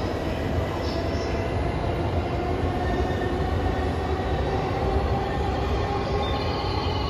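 JR 285 series Sunrise Express electric sleeper train at the platform: a steady low rumble and hum, with a few faint high-pitched squeals at the start, about a second in and near the end.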